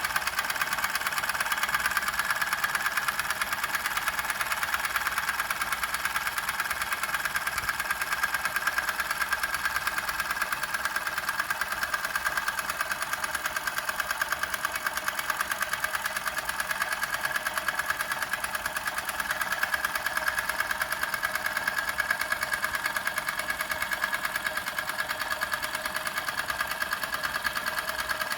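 Doll 511/3 toy steam engine running steadily, a fast, even, light mechanical clatter with no change in speed.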